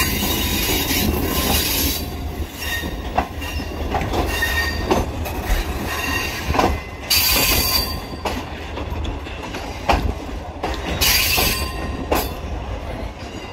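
Pakistan Railways Green Line Express passenger train rolling slowly into a station, heard from an open coach door. A steady rumble runs under wheels clacking over rail joints, and the wheels and brakes squeal in two bursts, about seven and eleven seconds in, as the train slows.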